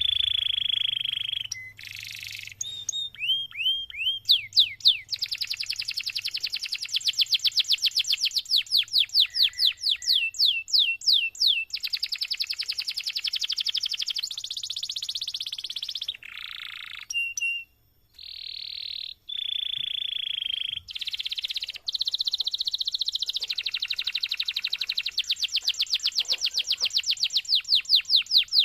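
Domestic canary singing a long, unbroken song. Fast rolling trills of many notes a second alternate with held whistled notes, with only a couple of brief pauses in the middle.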